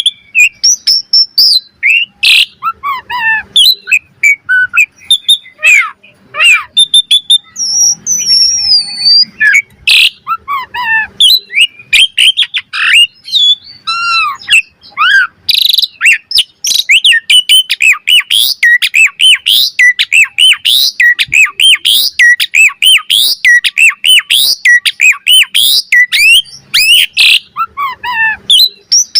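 Asian pied starling singing a long, varied song of whistles, rising and falling slurred notes and clicky chatter, the notes coming thicker and faster in the second half.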